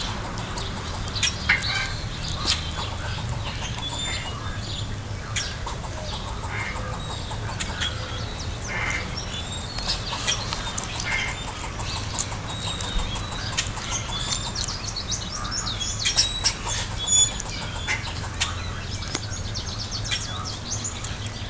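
Squirrel calling: many short, sharp calls repeated in irregular runs, which the uploader likens to an engine cranking but not firing.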